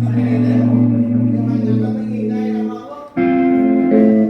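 Electric guitar through an amplifier playing held notes and chords over a low sustained bass note. The sound drops away briefly about three seconds in, then a new chord rings out.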